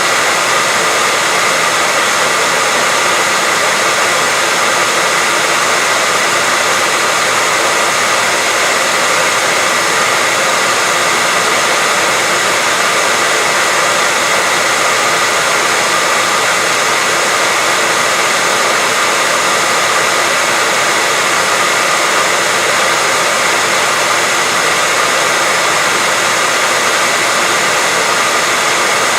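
Continuous white noise: an even, unchanging hiss, brighter in the high range than in the low.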